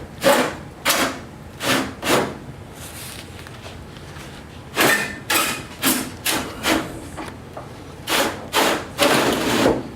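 Blunt-tip screwdriver pushing against the metal retaining clips of a truck's aluminium belt-line trim: a run of short knocks and scrapes, about one every two-thirds of a second, in two bursts with a pause of a few seconds between.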